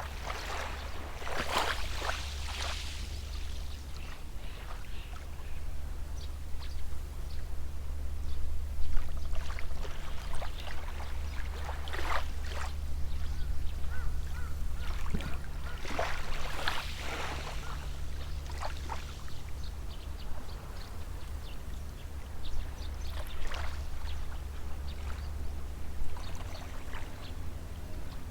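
Small sea waves washing onto the shore every several seconds, each a short rushing splash, over a steady low rumble.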